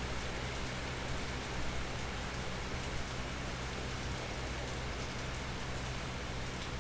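Steady rain falling, an even patter with a low steady hum beneath it.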